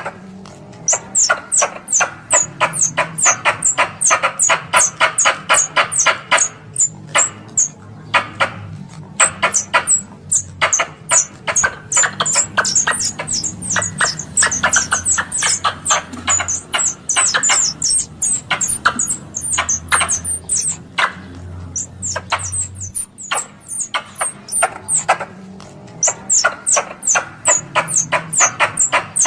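Squirrel calls used as a lure for plantain squirrels: long runs of sharp chirps, about four to five a second, broken by short pauses.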